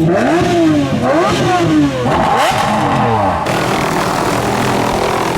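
Supercar engines revving, their pitch rising and falling in repeated quick sweeps, with the sound turning steadier about three and a half seconds in.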